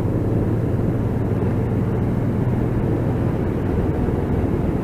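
Motorcycle engine running at a steady cruising speed under a wash of wind noise, heard through a microphone inside the rider's helmet.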